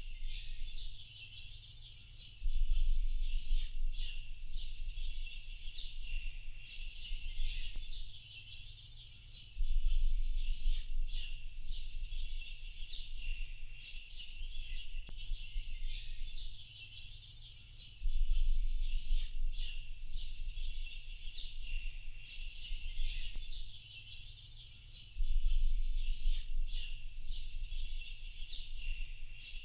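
Dense chorus of small birds chirping and twittering without a break. A low rumble comes in about every seven to eight seconds and lasts a few seconds each time; it is the loudest part of the sound.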